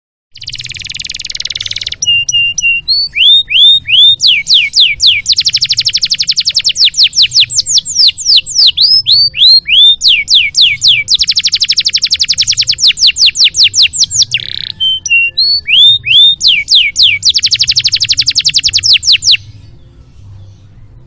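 Domestic canary singing a loud song. It opens with a short hiss, then alternates runs of repeated downward-slurred whistles with very fast trills, and stops abruptly near the end.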